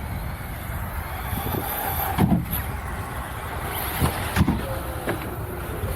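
Radio-controlled cars' electric motors whining faintly, over heavy wind rumble on the microphone, with a few sharp knocks about two, four and five seconds in.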